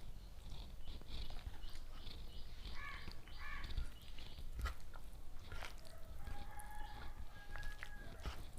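Close-up eating sounds: chewing with small clicks and crunches. Birds call in the background, with a run of quick high chirps over the first few seconds and a few longer calls in the second half.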